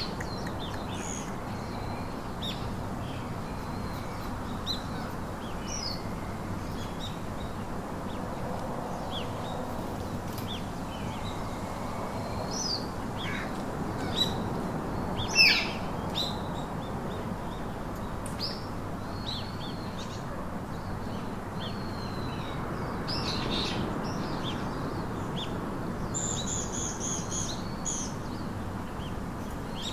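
Parakeets chirping and calling in short, scattered calls, some sliding in pitch, over a steady background hiss. One sharper, louder call comes about halfway through, and a quick cluster of calls comes near the end.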